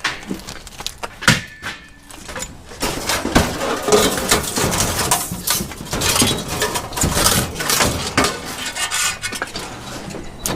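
Scrap metal pieces clanking and clinking as they are rummaged through and moved about: one sharp knock about a second in, then a dense run of clatter through most of the rest.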